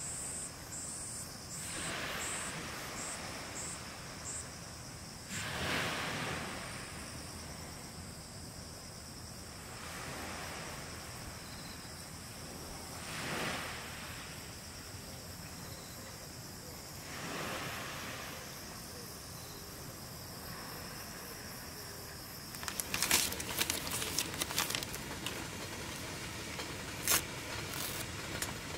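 Small waves washing onto the beach every few seconds over steady insect chirring. From about two-thirds of the way through, a run of sharp clicks and rattles from something being handled up close.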